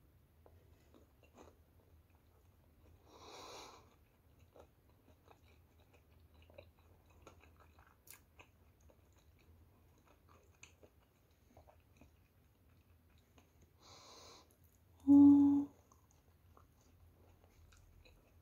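A person quietly chewing soft homemade bread from a sandwich, with small wet mouth clicks. There are two soft breaths, about 3.5 and 14 seconds in, and a short vocal sound from the eater just after the second breath, the loudest moment.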